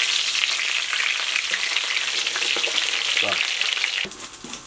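Breaded chicken schnitzel shallow-frying in hot oil in a frying pan, a steady dense sizzling and crackling that stops suddenly about four seconds in.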